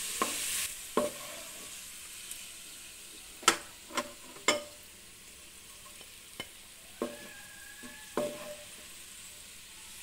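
Onions frying in hot ghee in a wok: a sizzle that is strongest for the first moment and then softer on the lowered flame. A wooden spoon scooping them out makes several sharp knocks and taps against the pan and a glass bowl, the loudest about three and a half seconds in.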